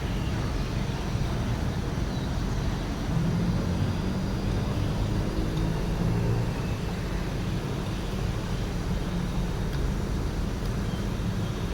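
Huebsch washing machine running with a steady low rumble, a low hum swelling for a few seconds partway through.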